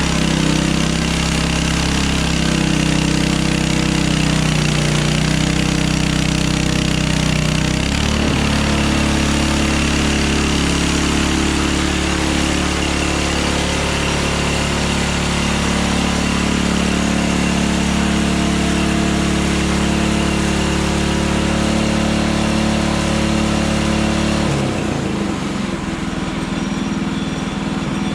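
Hudson Hunter portable bandsaw sawmill's gas engine running steadily at a constant speed. Its note shifts about a third of the way in, then drops and changes near the end.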